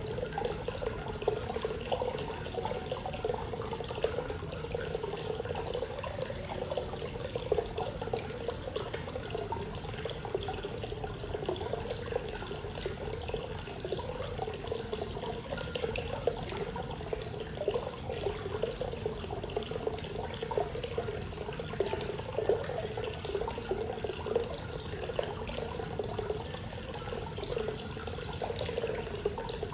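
Hot-spring water pouring steadily from a spout and splashing into the bath, a continuous gushing flow without pauses.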